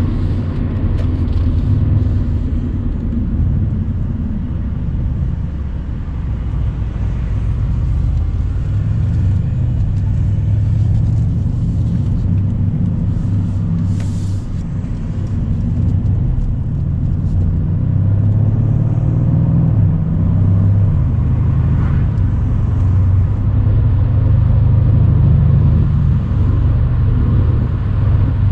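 Mercedes-AMG C63's twin-turbo V8 running under light load while driving, a deep steady engine note over road noise, heard from the open-topped car. The note sinks a little twice and swells somewhat in the second half.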